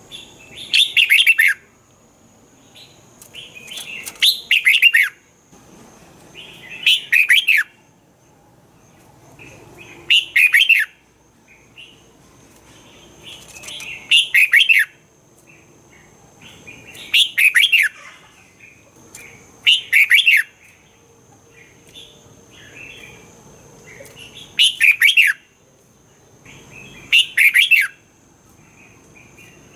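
Red-whiskered bulbul singing: short loud phrases of quick falling notes, about one every three seconds, nine in all.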